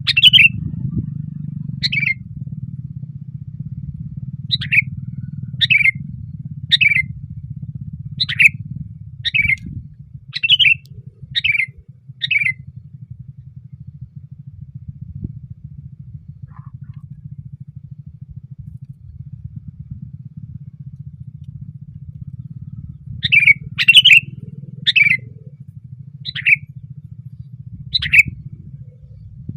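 Sooty-headed bulbul (kutilang) calling in short repeated notes, about one a second for the first dozen seconds, then after a pause of about ten seconds another run of notes near the end. A steady low rumble runs underneath.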